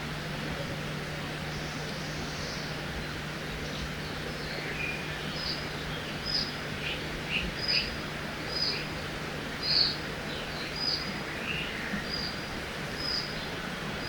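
Forest ambience by a river: a steady rush of flowing water with a faint low hum under it. Songbirds call over it, and from about halfway through one bird repeats a short, high call roughly once a second.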